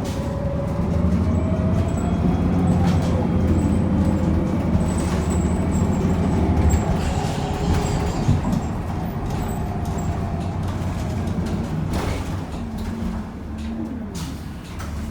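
Cummins Westport L9N natural-gas engine and Allison automatic transmission of a 2009 NABI Metro 45C city bus, heard from inside the cabin while under way. The engine pulls hard for the first several seconds and then eases off. A couple of sharp knocks or rattles come near the end.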